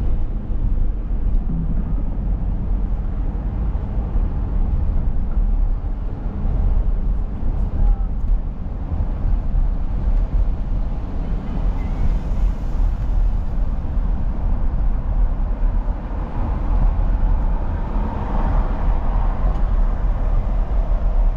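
Steady low rumble of a car on the road: engine and tyre noise with no sudden bangs.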